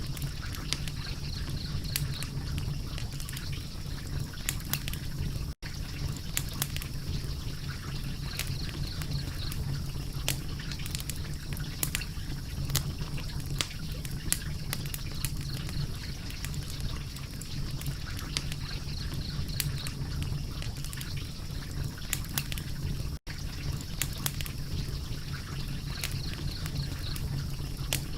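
Wood fire crackling, with frequent sharp pops and snaps over a steady low hum; the sound cuts out for an instant twice.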